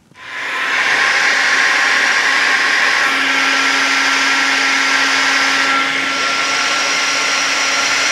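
Hot-air gun switched on and blowing steadily, heating the threadlocked clutch pressure-plate screws to soften the thread locker; a steady hum joins the blowing about three seconds in.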